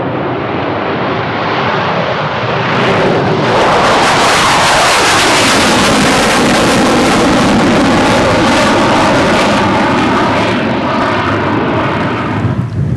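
Eurofighter Typhoon's twin EJ200 turbofans on a takeoff run and climb-out. The jet noise swells sharply about three seconds in and falls in pitch as the jet passes. It stays loud, then drops away near the end.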